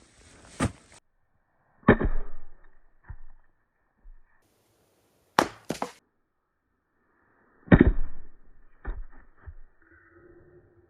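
Firewood logs knocking against each other as they are pulled off a woodpile and set down: several separate wooden knocks and clacks, a second or more apart, with a pair of sharp clacks in the middle and a heavier knock near the end followed by a few lighter ones.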